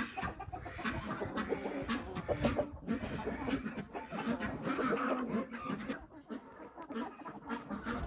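A flock of domestic hens clucking continuously at their feed and water.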